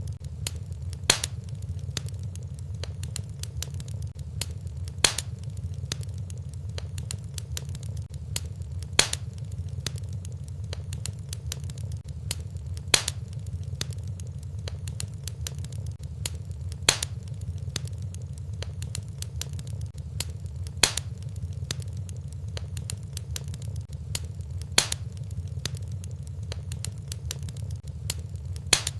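Wood fire crackling in a fireplace: a steady low rumble under constant small crackles, with a louder sharp pop about every four seconds.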